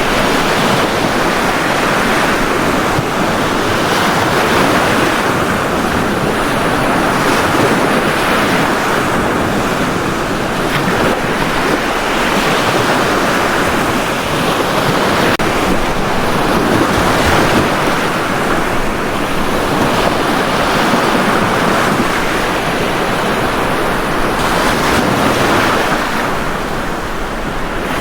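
Ocean surf breaking and washing on a beach: a continuous rush of water that swells and eases every few seconds.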